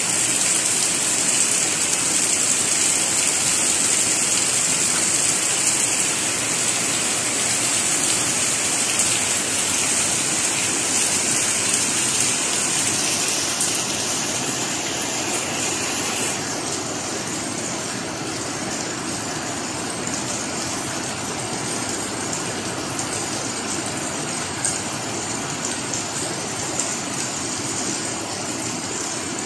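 Steady rain pouring down, a dense hiss that eases somewhat about halfway through.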